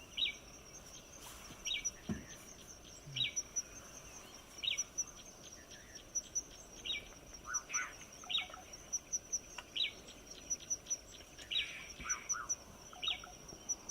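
Wild birds calling in the early morning: a short high call repeated about every second and a half, with a few lower calls mixed in, over a steady high-pitched trill.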